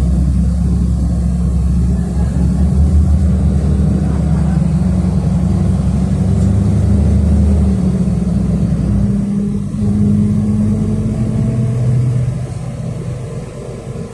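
City bus engine, heard from inside the cabin, pulling away from a stop: a loud low engine note that climbs slowly in pitch, then drops and quietens about twelve seconds in.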